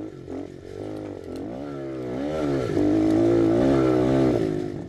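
Honda XR100 pit bike's single-cylinder four-stroke engine revving while being ridden: the pitch dips and climbs again, then holds higher and louder before easing off near the end.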